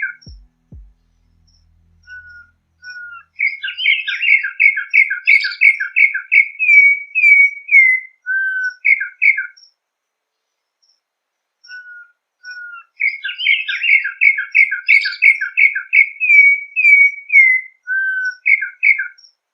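Campo troupial (sofrê) singing its whistled song twice over. Each time it starts with a quick run of paired notes, about two a second, then gives a few longer slurred whistles, with a pause of about two seconds between the two songs.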